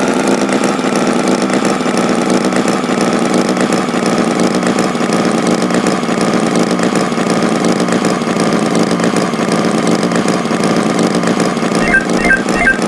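Tractor engine idling steadily. A song with a regular beat comes in near the end.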